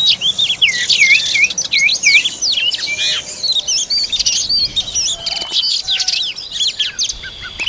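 Oriental magpie-robin singing: a fast, varied, unbroken run of whistles and chirps, the notes sweeping up and down.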